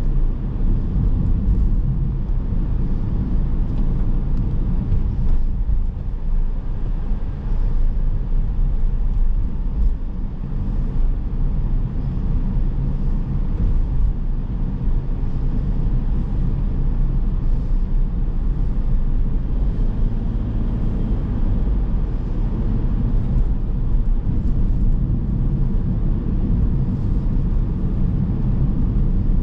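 Car driving on city roads: a steady low rumble of engine and tyre noise.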